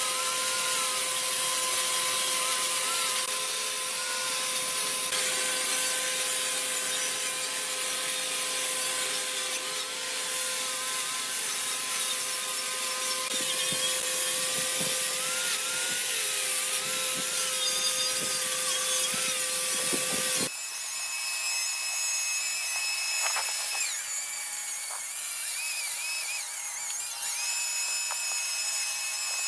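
A power tool running with a steady whine and a rubbing hiss as it works a surface. About twenty seconds in, the sound changes abruptly to a higher, wavering whine, as from another tool or another pass.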